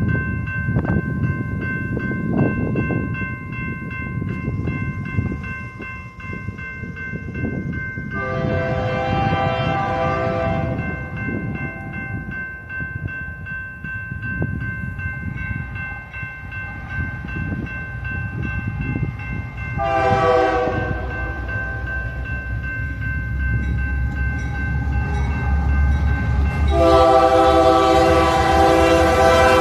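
Freight train approaching with its diesel locomotive's air horn sounding three blasts: a long one about a third of the way in, a short one past the middle, and another long one near the end. Under them the train's rumble grows louder, and a railroad crossing bell rings steadily through the first part.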